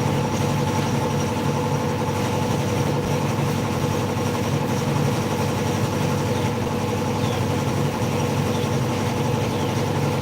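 A machine running steadily: an even low hum with several held tones that does not change.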